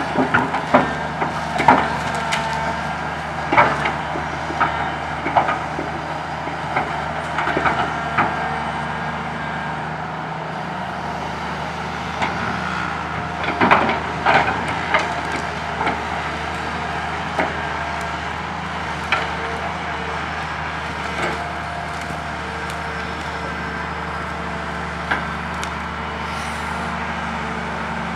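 Komatsu PC200 excavator's diesel engine running steadily while tree branches crack, snap and knock as they are loaded into a dump truck, in irregular bursts that are thickest at the start and about halfway through.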